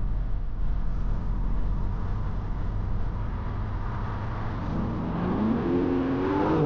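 Car engine and road noise heard inside the cabin: a steady low rumble, then the revs climb quickly over the last couple of seconds under hard acceleration.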